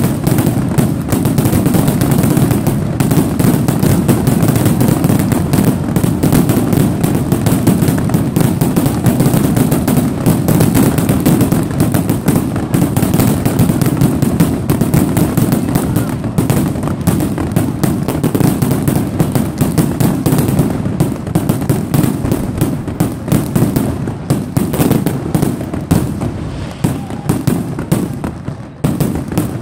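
Firework display: a dense, continuous barrage of crackling bangs and pops, thinning out over the last few seconds.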